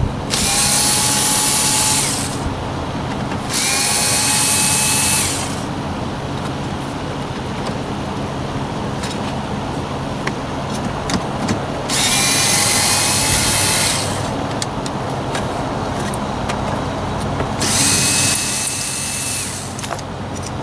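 Cordless power screwdriver with a T15 Torx bit backing out four trim screws: four whirs of about two seconds each, with small clicks of handling between them.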